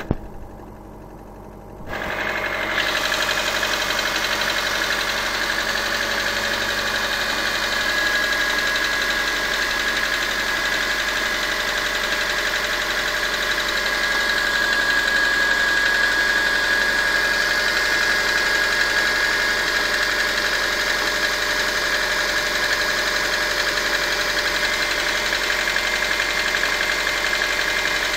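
Subaru EJ202 flat-four boxer engine running steadily at idle with a knock, which the owner puts down to the number four cylinder. The sound drops away for about two seconds at the start, then the engine comes back steady.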